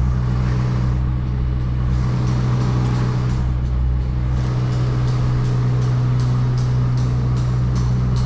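Scania R500 truck's V8 diesel engine running steadily under way, a constant low drone. From about three seconds in a light, regular ticking runs over it, a couple of ticks a second.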